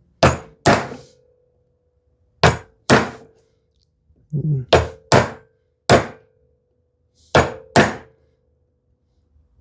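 Chisel being struck to chop a brass-hinge mortise in solid cherry: nine sharp knocks, mostly in pairs about half a second apart, with pauses between the pairs.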